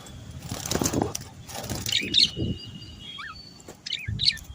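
Small birds chirping and whistling in short high phrases, broken by two louder noisy bursts in the first half.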